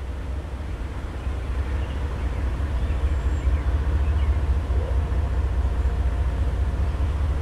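Low rumble of an approaching diesel freight train, growing steadily louder, with faint steady tones above it.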